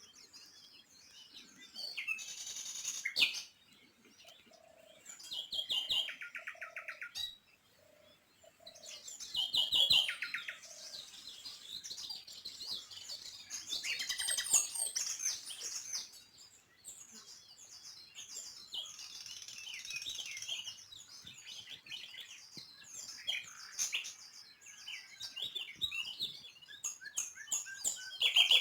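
Small songbirds chirping and twittering, several at once, with quick trills; the calls come in spells that grow louder and fall away.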